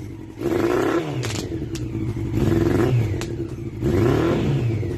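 Motorcycle engine, its muffler packed with gunpowder, revved three times, each rev rising and falling in pitch, with several sharp pops between the revs.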